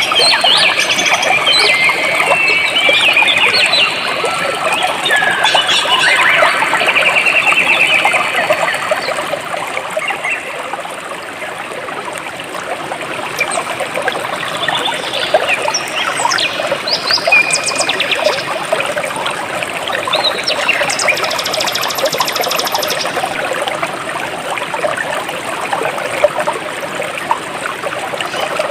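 Jungle stream water flowing and trickling steadily, with many birds chirping, whistling and trilling over it; the birdsong is busiest in the first third.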